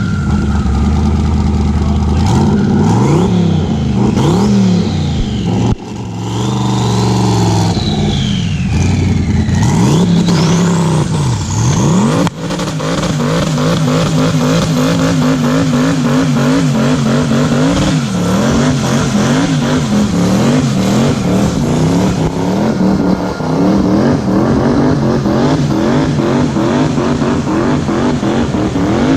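Nissan Z-car V6 engine with an aftermarket exhaust, revved again and again, its pitch climbing and falling. In the second half the revs come in quick, repeated blips. A high gliding squeal sounds between about seven and twelve seconds in.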